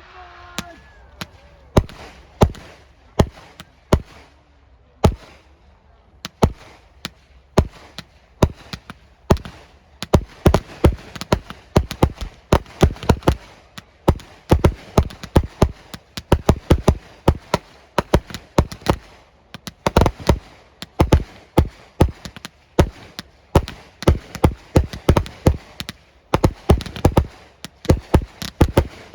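Fireworks going off: scattered single bangs for the first several seconds, then dense, rapid volleys of bangs from about ten seconds in.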